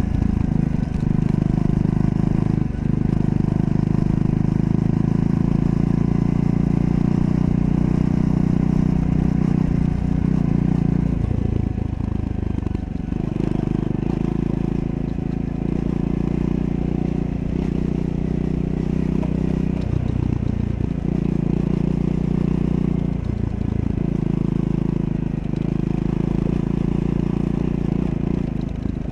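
Triumph Scrambler 400 X's single-cylinder engine running steadily under way, heard from the bike. The engine note drops briefly several times, with a longer lull about twelve seconds in.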